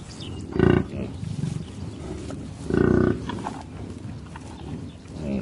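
Bison bellowing: two short, low grunting calls, the first about half a second in and a slightly longer one about two seconds later.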